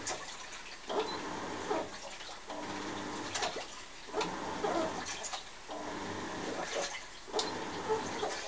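Washing machine in its wash cycle, the drum turning back and forth and sloshing water and laundry in repeated surges about once a second with short pauses between. Brief squeaky, gliding tones come through within the surges.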